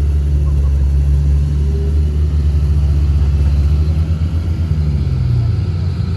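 Komatsu D31A bulldozer's diesel engine running with a steady low drone. Its pitch drops for a moment about four to five seconds in.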